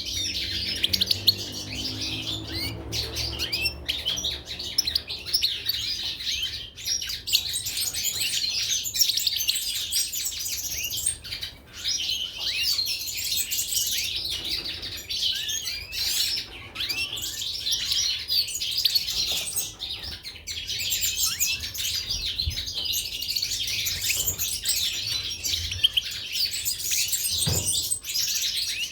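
Caged goldfinches and canaries chirping and twittering together, many short overlapping calls and trills without a break.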